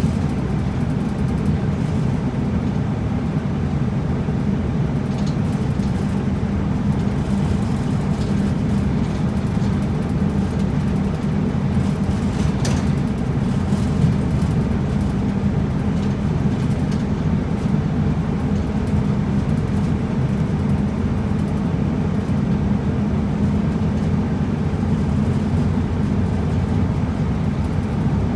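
Steady running noise of a route bus heard inside the cabin: the engine's low hum and road noise as the bus drives along. A single sharp click sounds about halfway through.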